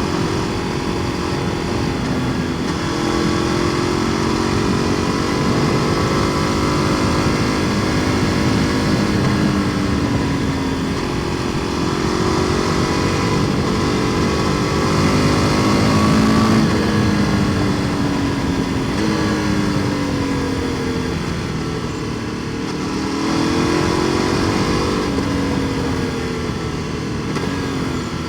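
KTM 1290 Super Duke R Evo's V-twin running through an Akrapovic exhaust while the bike is ridden. The engine note climbs slowly for most of the first half, drops off past the middle, then rises again and falls away near the end.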